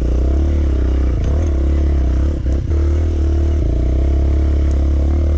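Dirt bike engine running under steady throttle while riding an off-road woodland trail, with a brief dip and a couple of knocks about two and a half seconds in.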